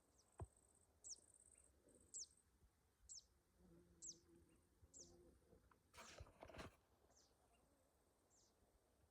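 A small bird repeating a short, high note that falls in pitch, about once a second, faint against near-quiet surroundings. A soft knock comes about half a second in and a brief louder pair of knocks around six seconds in.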